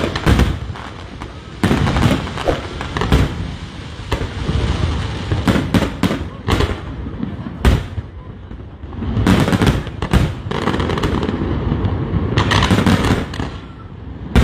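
Aerial fireworks display: shells bursting overhead in a string of irregular bangs and crackles, with several bangs in quick succession now and then.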